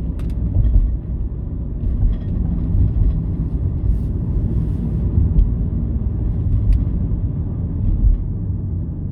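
Steady low rumble of road and engine noise from inside a moving car, with a few faint clicks.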